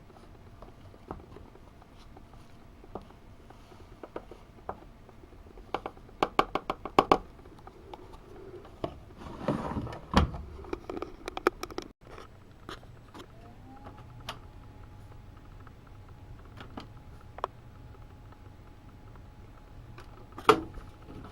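Handling noises at an AEG Öko-Lavamat 72520 front-loading washing machine: a quick run of sharp clicks and knocks, a rustle, then a steady tone that slides up and holds for several seconds, with a knock near the end.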